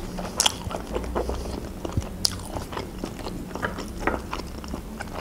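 Close-miked chewing of a mouthful of boiled chicken breast: soft, wet mouth clicks at irregular intervals.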